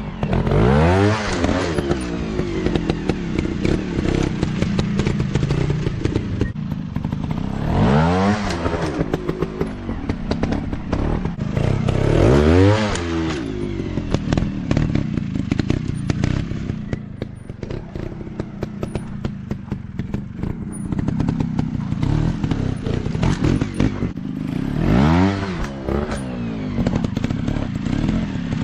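Dirt bike engines running continuously, revving up and back down in four strong bursts, with quieter running in between.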